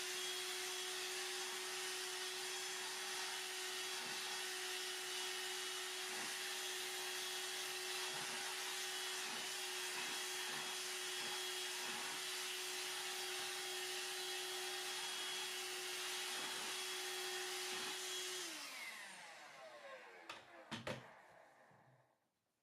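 Hoover Air Cordless 20V lithium-ion handheld vacuum running steadily with a constant motor whine while vacuuming flour off a hard floor. About eighteen seconds in it is switched off and the whine falls in pitch as the motor spins down, with a few light knocks near the end.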